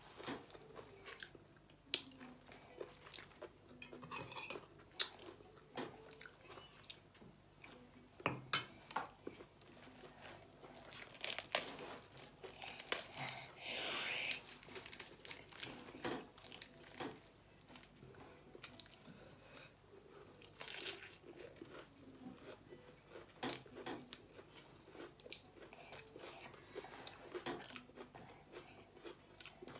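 Close chewing and mouth sounds of someone eating stir-fried clams and mussels, with many sharp clicks as shells knock against the plate and cutlery. About halfway through, a brief crisp rustle and crunch of lettuce leaves.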